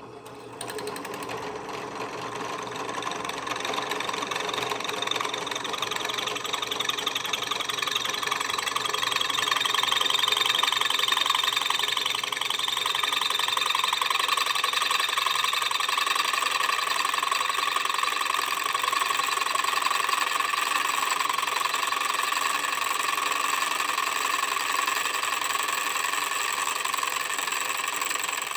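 Electric drill running steadily as its bit cuts dry through the nail holes of a steel horseshoe, growing louder over the first ten seconds and stopping just before the end.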